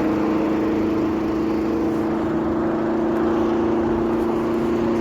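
Car engine running at steady revs, an even droning tone that holds one pitch throughout.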